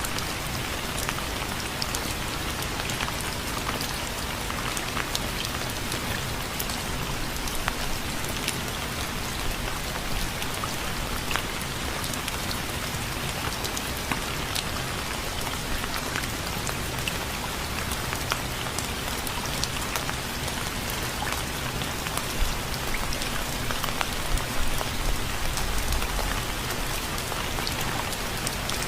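Steady rain falling, an even hiss with many individual drops heard as sharp ticks.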